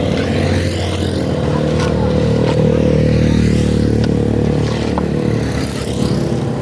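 An engine running steadily, with a few light clicks over it.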